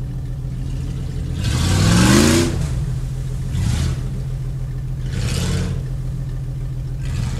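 Jeep ZJ engine running under load, revving up with a rising pitch about two seconds in, then three shorter surges of noise as the 38-inch tyres spin and throw mud.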